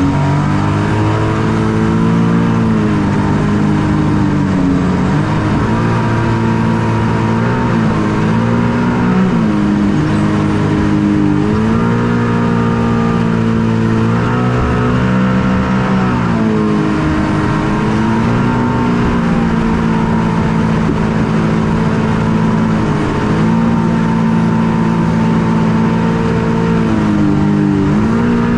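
Hydro Attack shark boat's engine running loudly, its pitch rising and falling again and again as the throttle is opened and eased.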